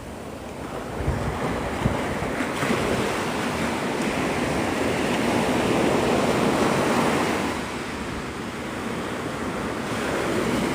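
Gulf surf breaking and washing up the beach, swelling about a second in, loudest around six to seven seconds, easing near eight seconds and building again near the end. Wind buffets the microphone at the same time.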